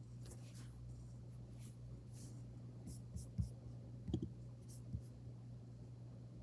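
Faint room tone: a low steady hum with a few soft clicks and rustles scattered through it.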